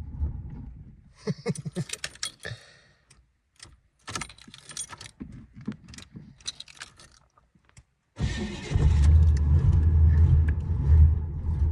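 Keys jangling and rattling at the ignition, then, about eight seconds in, a car's starter cranking the cold engine for several seconds without it catching: a hard cold start on a car that will not fire.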